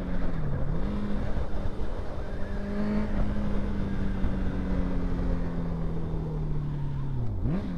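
Honda CBR650's inline-four running through an aftermarket exhaust while riding. The engine note dips briefly and climbs back about half a second in, holds, then slowly sags for several seconds before another quick dip and rise near the end, with wind and road noise underneath.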